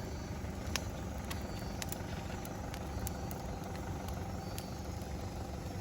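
Campfire crackling, with scattered sharp pops, over a steady low engine hum.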